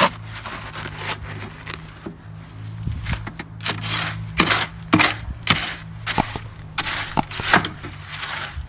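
Concrete mix being worked by hand with a tool, a run of irregular gritty scraping and crunching strokes through stiff, partly dry mix, coming thick and fast after a few seconds.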